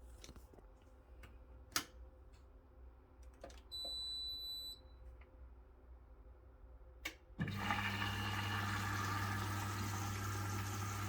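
Washing machine being switched on: a few soft button clicks, a single high electronic beep about four seconds in lasting about a second, then a click and, about seven seconds in, water starts rushing into the machine with a steady low hum.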